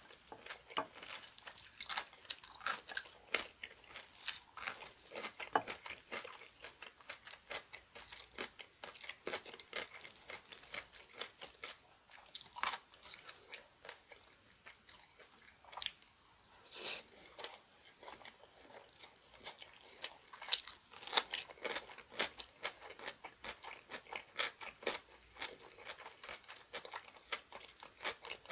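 Close-miked eating: chewing with many irregular sharp crunches and wet clicks, from mouthfuls of seaweed rice ball and ponytail-radish kimchi.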